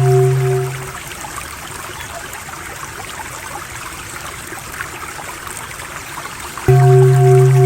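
Steady running-water sound like a trickling stream. A loud, steady low 'om' drone with pulsing overtones fades out about a second in, leaving only the water, and cuts back in suddenly near the end.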